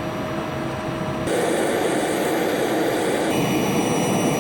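Steady turbine rush of a Cessna Citation XLS on the ground. The sound changes abruptly about a second in and again near three seconds in.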